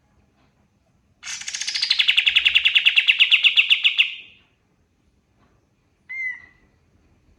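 Kapas tembak bulbul singing a loud, rapid trill of about ten notes a second for about three seconds, starting high and dropping to a steady lower pitch. About two seconds later it gives one short single call.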